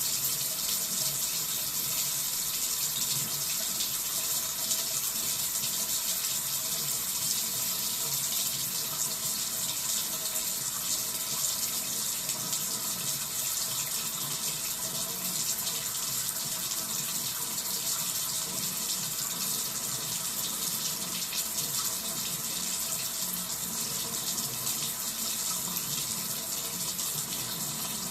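Cold-water tap running, a steady hiss of flowing water, on a supply with an inconsistent cold-water flow problem.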